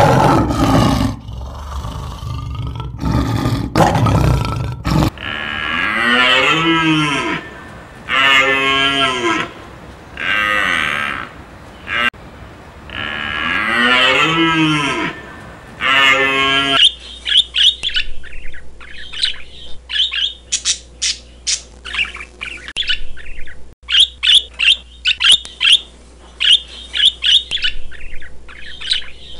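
A few loud, harsh alpaca calls. Then a bull elk calls about six times, each call about a second long and rising and falling in pitch. Near the end, budgerigars chirp and chatter rapidly.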